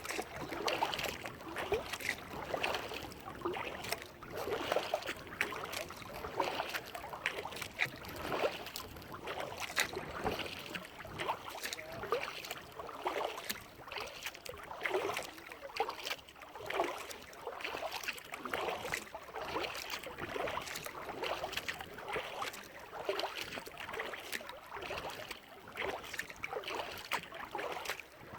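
Kayak paddle blades dipping and pulling through lake water in a steady rhythm of strokes, about one a second, with splashing and dripping between them.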